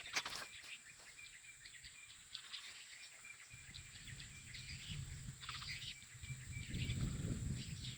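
Swamp-edge outdoor ambience: a steady high insect drone with a short chirp repeating about twice a second, a few clicks right at the start, and low rustling in the second half.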